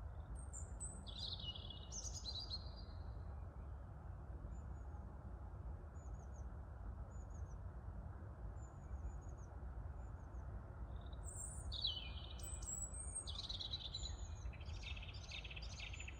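Small birds singing in high, chirping phrases: a short burst about a second in, faint scattered chirps, then a longer, louder run of song over the last few seconds. Under the song, wind rumbles steadily on the microphone.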